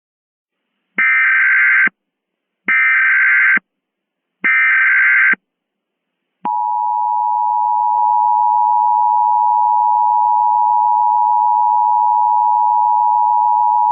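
Emergency Alert System tones: three short bursts of SAME header data, each about a second long, then about six and a half seconds in the steady two-tone EAS attention signal starts and holds. This is the standard tone sequence that opens an emergency alert broadcast.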